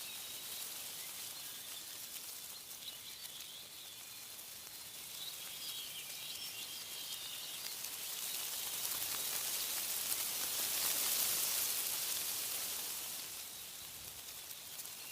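Wind rustling through tree leaves, swelling into a louder gust about halfway through and easing off near the end, with small birds chirping in the first half.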